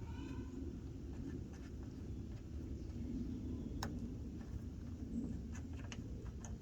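Light handling noises from working the engine's oil fill and dipstick: faint scraping, one sharp click about four seconds in and a few lighter clicks near the end, over a low steady background rumble.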